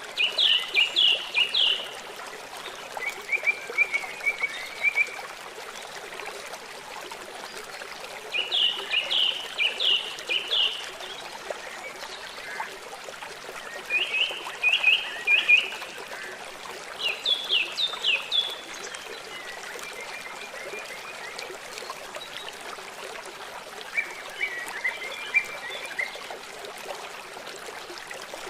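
Running stream water with a steady trickling rush. Over it, short bursts of rapid trilled calls repeat every few seconds, each burst lasting a second or two.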